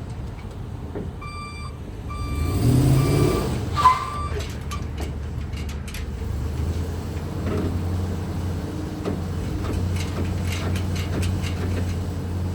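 Chevrolet 3500 HD pickup's Vortec gas V8 running as the truck is driven in reverse and forward: a series of short reversing beeps sounds in the first few seconds while the engine swells briefly, a sharp click comes about four seconds in, and the engine then runs steadily as the truck moves.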